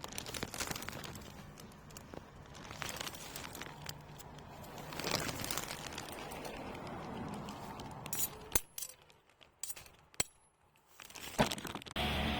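Dried spear thistle burning in a steel fire pit: light crackling with scattered small clinks, and three sharper clicks in the last few seconds.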